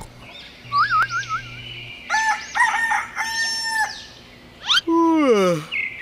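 Rooster crowing cock-a-doodle-doo, an added wake-up sound effect. Before it comes a short warbling whistle, and after it a quick rising sweep and a loud sliding-down tone.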